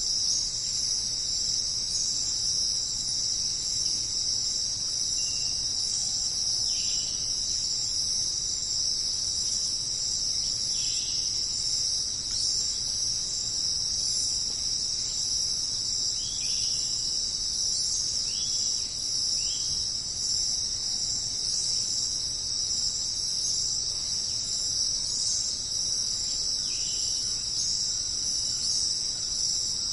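Dense insect chorus of crickets or cicadas, a steady high-pitched shrill hum, with about seven short chirps scattered through it.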